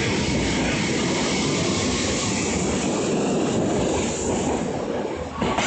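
Electric commuter train cars running past close by, a steady loud rumble and rattle of wheels on rails that eases slightly, then a sharp clack near the end.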